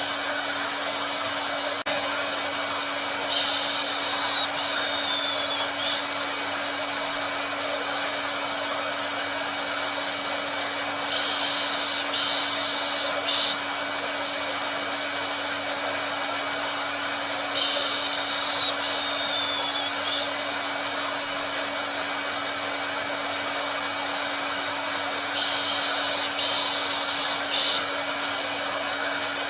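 Hair dryer running steadily with a constant hum. A brighter, higher hiss swells and fades about every seven seconds, twice with a short falling whistle.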